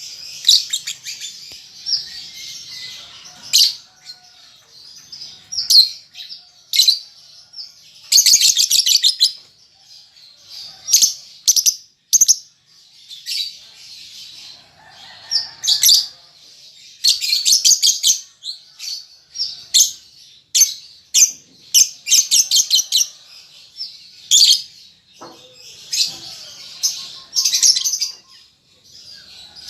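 Young lovebird chattering in high, shrill chirps, broken by repeated bursts of rapid-fire ticking trills about a second long: the 'ngetik' and 'ngekek' calls of a juvenile lovebird learning its song.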